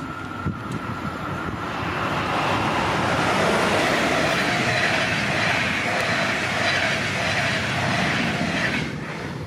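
A train passing by: rolling wheel-on-rail noise builds over the first couple of seconds, stays loud, then falls away sharply near the end.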